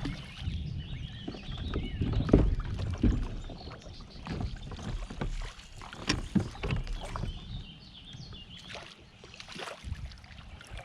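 Kayak on a creek: water sloshing against the hull with scattered knocks and clatter of gear and paddle on the boat, the loudest knock about two seconds in.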